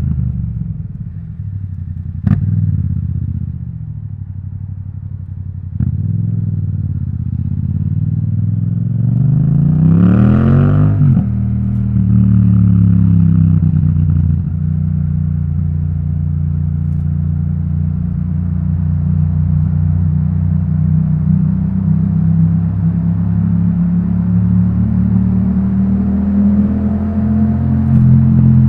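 Yamaha MT-07 parallel-twin engine through an Akrapovic titanium exhaust while riding. The revs fall away at first, then climb hard to a peak about ten seconds in and drop sharply at a gear change, after which the engine pulls steadily with the revs slowly rising. Two short knocks come in the first few seconds.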